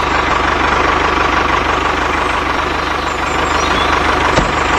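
Tractor engine running steadily, with a fast, even chug.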